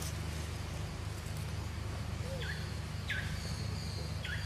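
Bird chirps: three short, high, downward-sweeping calls, about two and a half, three and four seconds in, over a steady low hum.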